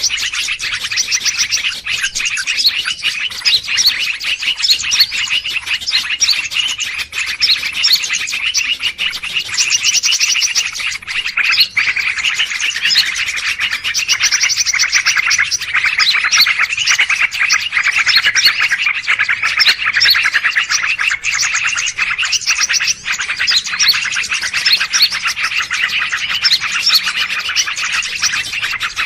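A noisy, dense chorus of small birds chirping and twittering rapidly and without pause, the raucous bird chatter played as a lure to draw wild birds in for trapping.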